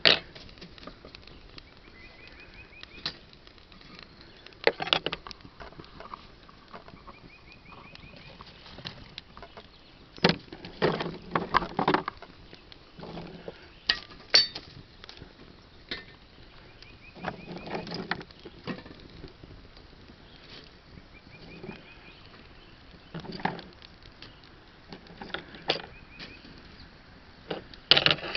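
Scattered snaps and knocks of dry sticks and twigs being broken and handled, in short irregular clusters.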